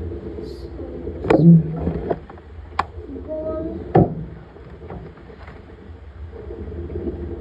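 Laundry machine running with a steady hum and churning, broken by several sharp knocks, the loudest about a second in.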